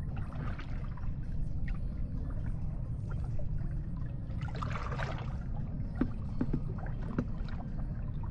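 Water sloshing and lapping against a small fishing boat, with a few louder swishes about half a second and five seconds in and some light knocks near the end, over a steady low rumble.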